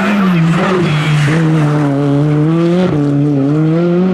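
Rally car engine running hard on a stage, a strong steady note whose pitch sags and recovers about a second in and breaks briefly about three seconds in before climbing again.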